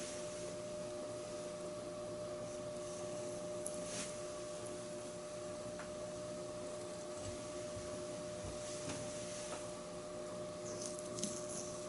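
Steady electrical hum holding a few fixed tones, with a few faint light ticks and rubs now and then.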